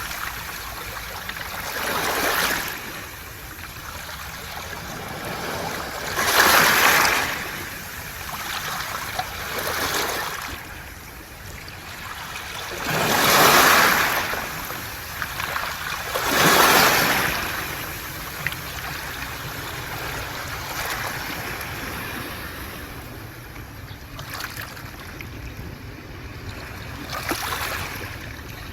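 Sea waves washing in and out over a beach of smooth round pebbles (mongdol), the water rushing and hissing through the stones. About five strong surges come in the first two-thirds, then the wash settles to a lower, steadier sound with one small swell near the end.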